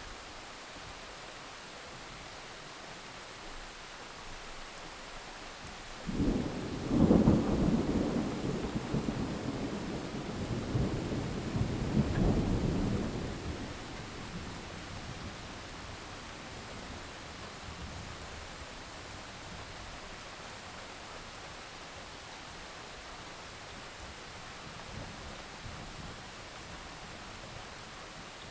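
Steady rain with a peal of thunder that breaks in suddenly about six seconds in. The thunder rumbles, swells again a few seconds later, and fades back into the rain.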